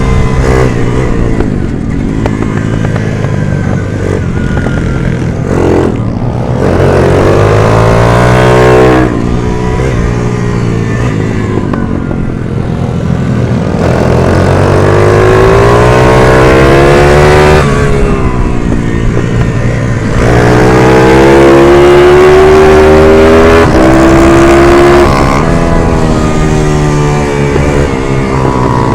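A 140cc race minibike engine run hard, its pitch climbing steadily through the revs several times, then dropping sharply when the throttle closes for corners or a gear change.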